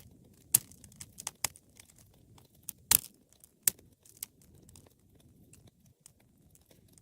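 Wood fire crackling, with irregular sharp pops and snaps over a faint low rumble of flames; the loudest pops come about half a second and three seconds in.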